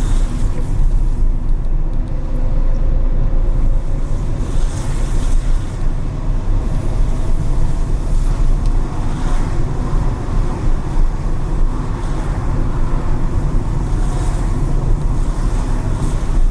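Steady low rumble of a car driving through city traffic, with road and wind noise and a few swells of tyre hiss from passing vehicles.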